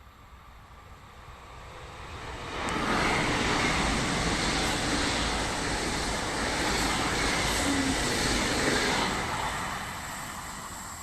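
A train passing by: the rumble of wheels on rails builds over about three seconds, holds loud for about six, then fades.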